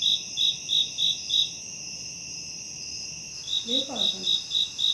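Crickets chirping in even pulses, about three a second, over a steady high hiss; the chirping stops for about two seconds midway and then resumes.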